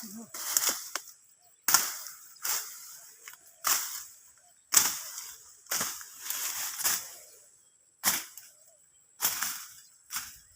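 Cassava stalks being cut in a garden: a series of about ten sharp cracks, roughly one a second, each fading quickly.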